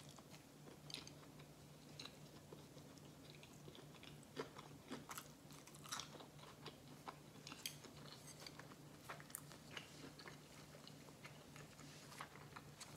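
Person chewing a mouthful of sushi roll with the mouth closed: faint, irregular wet clicks and smacks of chewing.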